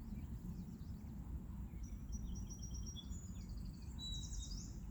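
Outdoor ambience with a steady low rumble, and small birds singing a quick run of high chirps and trills from about two seconds in.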